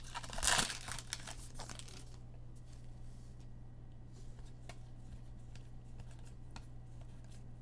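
Foil wrappers of trading-card packs crinkling and tearing open for about the first two seconds, then faint scattered ticks over a low steady hum.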